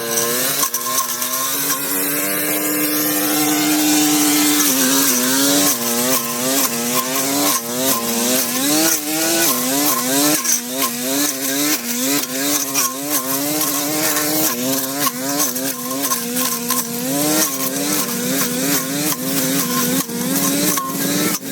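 Small high-revving engine of a handheld power tool running near full throttle. Its pitch holds steady for a few seconds, then dips and recovers again and again, about every half second, as it takes load and frees up.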